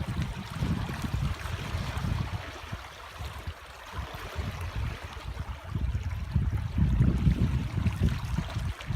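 Sea waves washing on the shore, a steady churning wash that ebbs in the middle and swells again about six seconds in.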